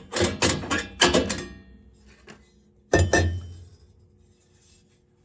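Metal parts clinking and knocking: a quick run of sharp knocks in the first second and a half, two more around three seconds in, with a faint ringing tone hanging between them.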